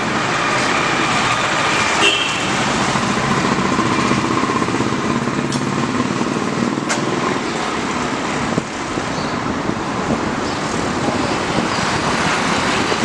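Steady roadside traffic noise, with a sharp click about seven seconds in.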